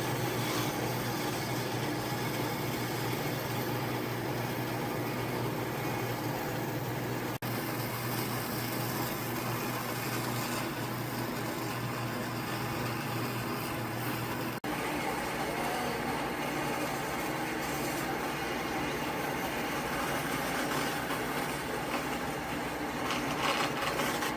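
Steady machine noise with a low hum underneath, broken twice by brief dropouts, about seven and fifteen seconds in.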